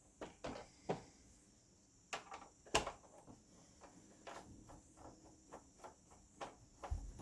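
Scattered small clicks and knocks of plastic and metal projector parts being handled and pried apart during disassembly, with one sharper knock about three seconds in and a dull thump near the end.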